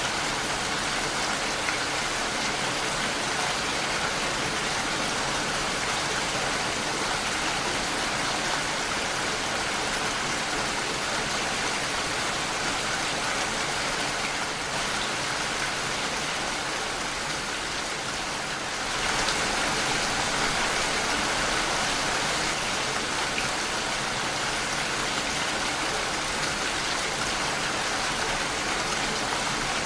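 Steady rain falling against a window, easing slightly a little past halfway and picking up again about two-thirds of the way through.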